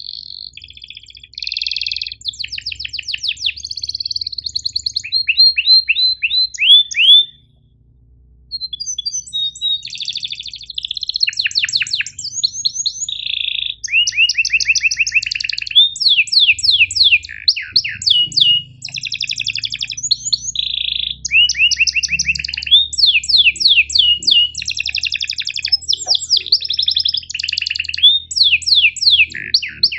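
Domestic canary singing a long, high-pitched song of rapid repeated chirps and rolling trills, with one brief pause about seven and a half seconds in.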